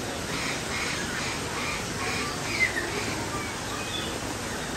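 A bird giving a quick series of harsh calls, about two or three a second, followed by a short, louder falling note about two and a half seconds in.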